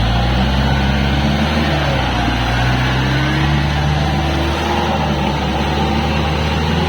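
Kubota L4503 tractor's diesel engine running steadily at working speed, with slight rises and falls in pitch, as it drives a rotavator through a wet paddy field.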